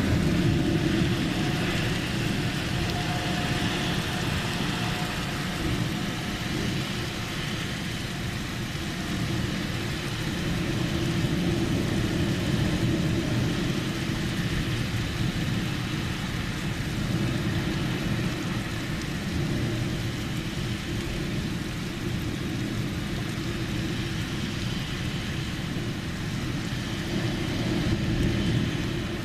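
Steady rain during a thunderstorm, with a constant low rumble underneath.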